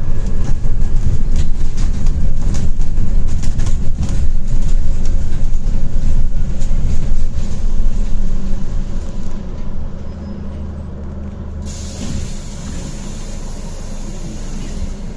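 Scania Citywide low-floor city bus running, a loud low engine drone with many knocks and rattles over the first nine seconds, then easing off. A steady hiss comes in suddenly about twelve seconds in.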